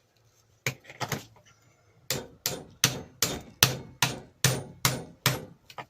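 Hammer tapping metal on metal, a socket held against a polishing mop to drive it onto a bench grinder spindle. Two taps come first, then a steady run of about nine sharp, ringing taps at roughly three a second. The mop is not seating and won't go on.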